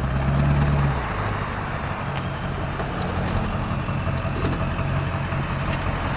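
Straight-piped 7.3 L Powerstroke V8 turbo-diesel running with a steady low exhaust note. The note eases and drops slightly about a second in, then holds steady.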